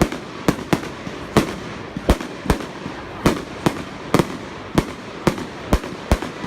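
Fireworks going off in a rapid string of sharp bangs, about two a second at uneven spacing, over a constant bed of noise between the reports.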